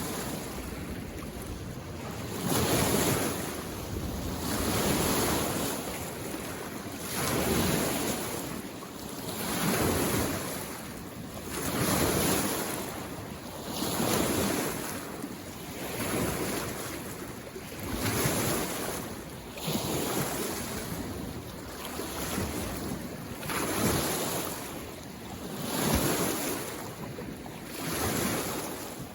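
Small waves lapping in on a mountain lake shore, each wash swelling and fading about every two seconds in a steady rhythm.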